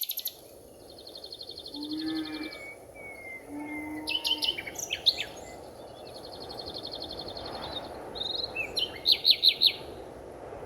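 Several forest birds calling: rapid high trills, clusters of sharp chirps, and two short low hoots about two and four seconds in, over a steady background hiss of the forest. The loudest sound is a run of sharp chirps about nine seconds in.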